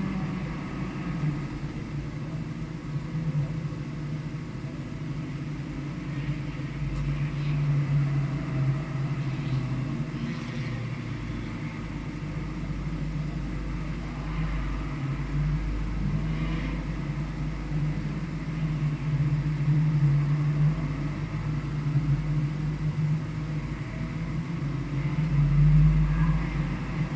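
A vehicle's engine running on a circuit lap, speeding up and easing off several times, with the loudest pulls about eight seconds in, around twenty seconds and near the end.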